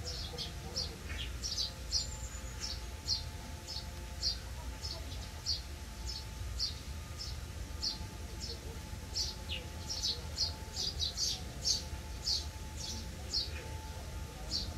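A small bird chirping over and over, short high notes at roughly two a second, coming a little faster about two thirds of the way in, over a low steady background rumble.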